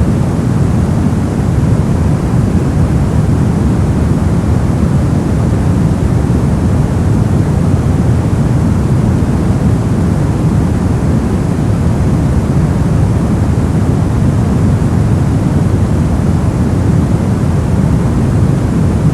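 Steady, unchanging ambient noise of the white-noise kind for sleep masking, a loud even hiss with most of its weight in the low range.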